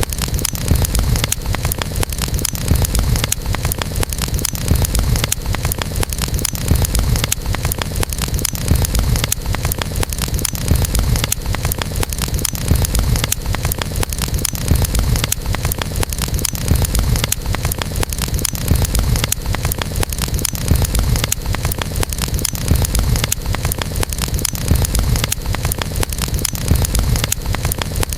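Campfire burning, with dense, fast crackles and snaps over a steady deep rumble.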